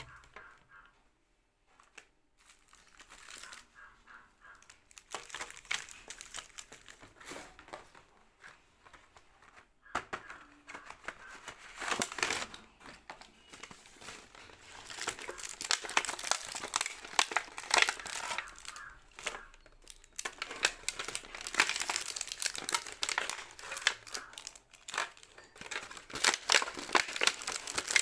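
Plastic snack and sweet wrappers crinkling and being torn open, in quick irregular crackles. Nearly quiet for the first couple of seconds, then busier and louder from about ten seconds in.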